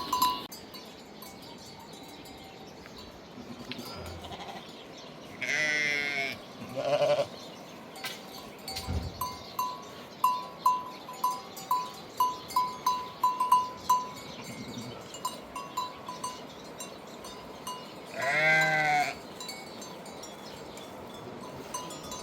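Flock livestock bleating: a long wavering bleat about six seconds in, a shorter one just after, and another near the end. In between, an animal's neck bell clinks in quick runs of light rings.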